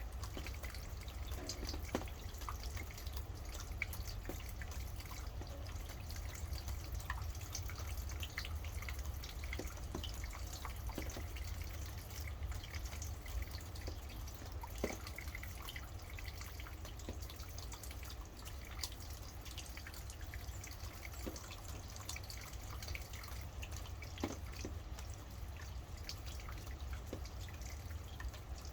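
Rain falling in separate drops, each a sharp tick, irregular and continuous, over a steady low rumble.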